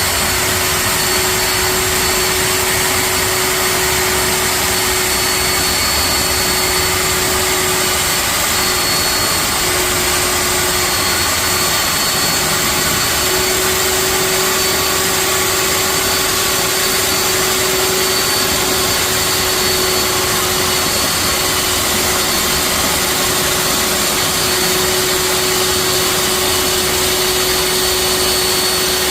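Electric concrete-cutting machine running steadily, a continuous motor whine over loud cutting noise with no pauses.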